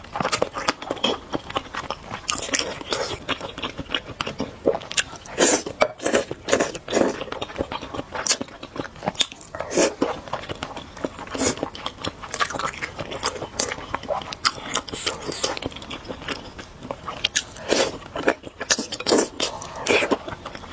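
Close-miked eating of spicy noodles: a steady run of irregular wet chewing and biting sounds, with sharp mouth clicks and smacks.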